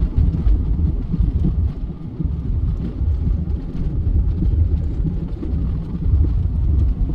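A vehicle running, a loud low uneven rumble.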